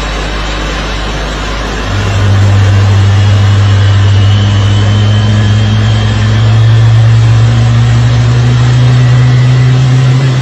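A steady engine drone over loud rushing noise. It grows louder about two seconds in and edges slightly higher in pitch partway through.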